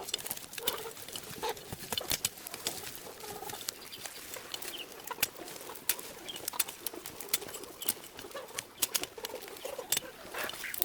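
Domestic fowl clucking softly in short scattered calls, with many sharp clicks and taps throughout.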